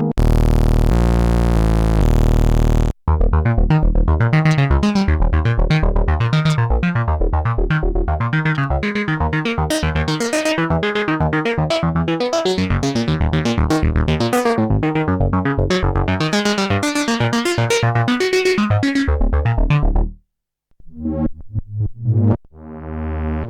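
Arturia MicroFreak synthesizer playing a series of preset sounds. A thick sustained patch with stepping bass notes cuts off about three seconds in. A fast sequenced run of short plucked notes follows until near the end, then after a brief gap with a few short notes a sustained chord begins.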